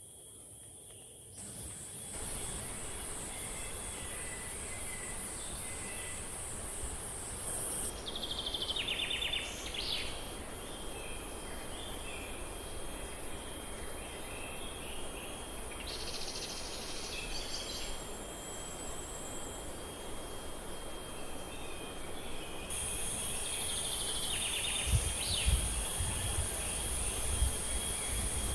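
Steady rain falling in a forest, with insects trilling in a high, steady band that grows louder about three-quarters of the way through. A few short calls rise above it, and there are low rumbles near the end.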